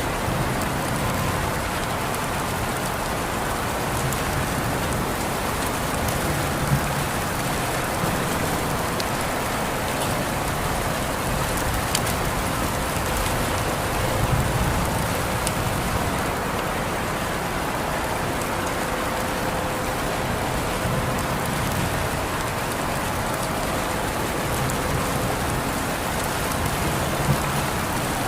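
Steady rainfall, a continuous even hiss with scattered drops tapping on surfaces.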